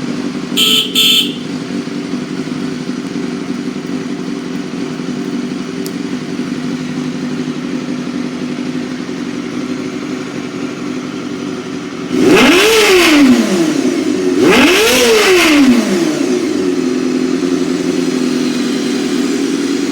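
Honda Hornet 250's four-cylinder engine idling steadily, then revved twice in quick blips, the pitch rising and falling each time before it settles back to idle. Two short sharp sounds come about a second in.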